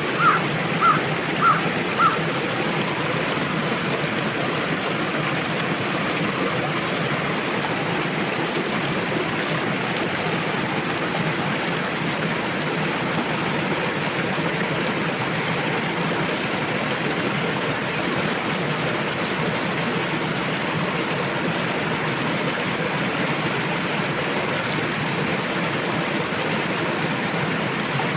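A forest river rushing steadily over its bed. In the first two seconds a bird gives four short, evenly spaced high chirps over it.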